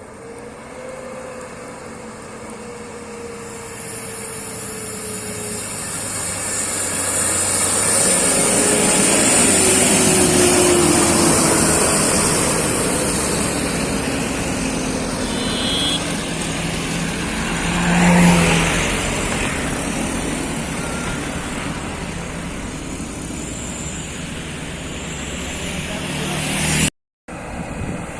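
Heavy truck engine labouring under load on a steep climb, its pitch sinking slowly as it runs out of power. A short, louder blast comes just past the middle.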